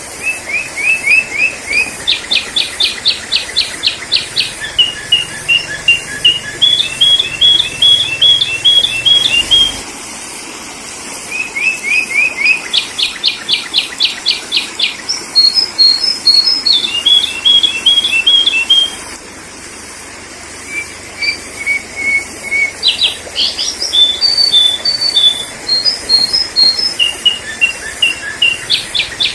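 Sooty-headed bulbul (kutilang) song used as a lure call: phrases of quick chirps and rapid trills follow one another, with short pauses about ten and twenty seconds in.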